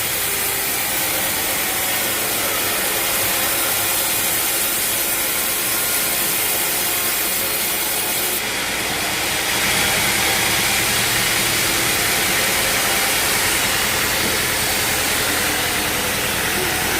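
Sawmill saw cutting through a log, a steady hissing grind over a running engine, changing about eight seconds in and with a fuller low engine sound from about ten seconds in.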